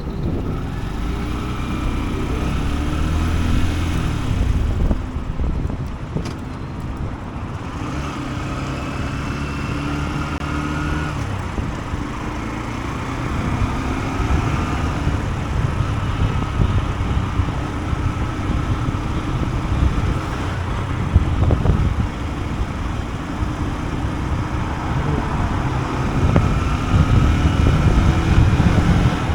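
A Honda CB125F's small single-cylinder four-stroke engine running while the bike is ridden. Its pitch climbs under acceleration and drops back at gear changes, over a steady rush of wind and road noise.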